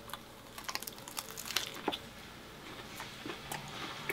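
Biting into and chewing a deep-fried, battered double bacon cheeseburger: a faint run of crisp crunches from the fried batter crust, densest about half a second to two seconds in, then quieter chewing.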